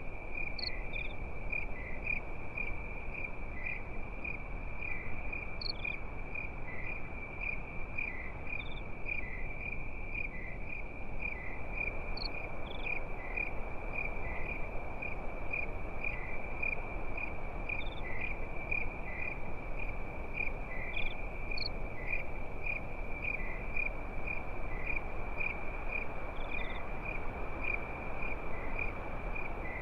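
Crickets chirring at night: one steady high trill pulsing evenly, with short higher chirps every few seconds, over a low steady hiss.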